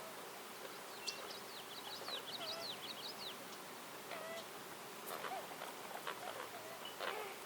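A small songbird sings a fast twittering phrase of quick up-and-down notes, over a steady background hum of insects, with a few lower short calls and faint clicks later on.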